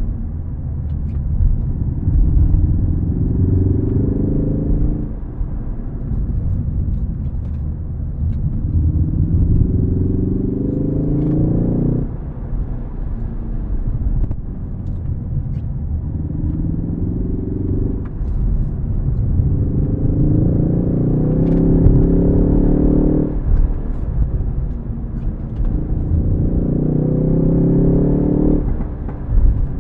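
Ford Focus ST engine under hard acceleration with a manual gearbox, pulling up through the revs five times. Each pull ends in a sudden drop in revs as the throttle is lifted.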